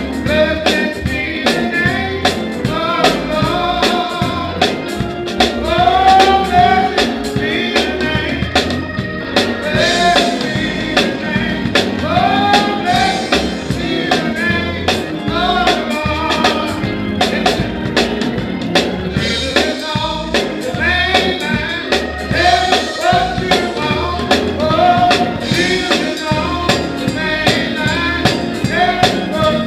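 Gospel music: voices singing a song over drums, bass and other instruments, with a steady beat.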